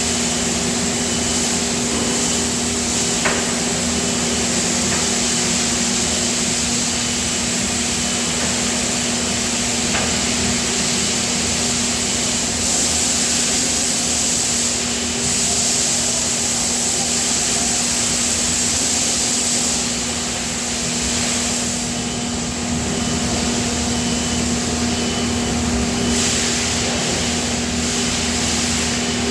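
Steady industrial machinery noise around a die casting machine: a constant hum with a dense hiss over it, and a couple of faint clicks.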